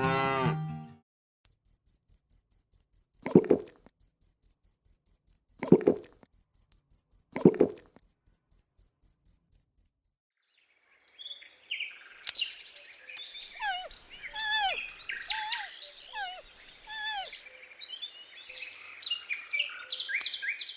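A cricket-like insect chirping in a fast, even high-pitched pulse, broken three times by short lower calls, then stops. After a brief gap a chorus of small songbirds chirps and twitters with many varied notes.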